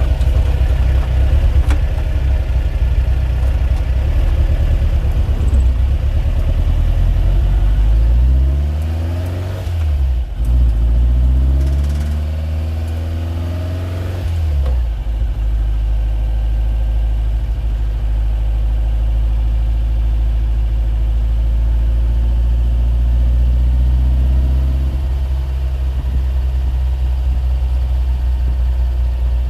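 A continuous low mechanical drone with a steady pitched hum. Its pitch slides down and back up over several seconds about a third of the way in, then holds steady again.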